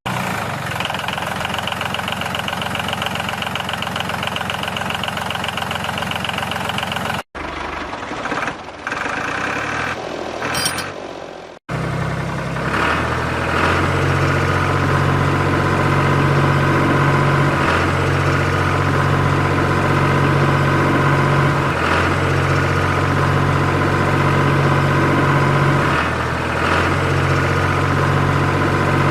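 Steady motor running, broken by two abrupt cuts, about seven and about twelve seconds in. After the second cut a low drone dips briefly about every four seconds.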